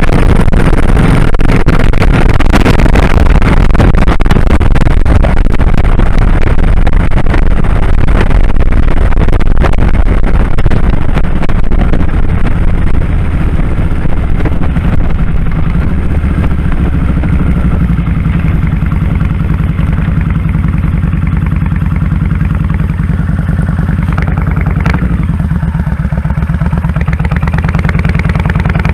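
2001 Kawasaki Drifter 1500's V-twin engine running with the bike under way and wind rushing over the microphone. From about halfway through, the wind noise falls away as the bike slows, and the engine's low, even beat comes to the fore.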